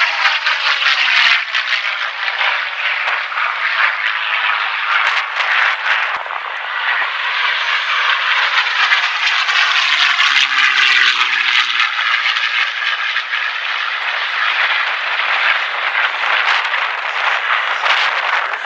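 Piston-engined propeller aircraft flying past, a loud steady engine note that drops in pitch as it goes by, once near the start and again about ten seconds in.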